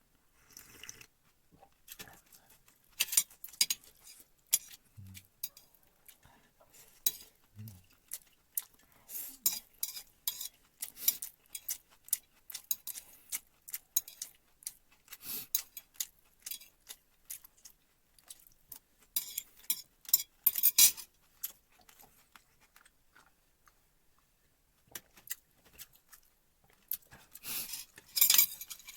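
Utensils clinking and scraping against a dish in irregular sharp clicks, with louder clusters about twenty seconds in and near the end.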